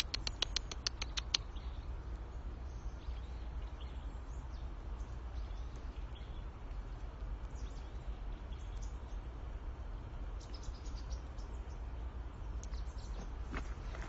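A bird's rapid chattering call: a quick string of about eight sharp notes in the first second and a half, with a few shorter high chirps later on, over a steady low rumble.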